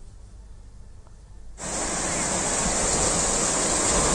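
Rushing water, a steady loud rush that cuts in suddenly about a second and a half in after a low quiet stretch.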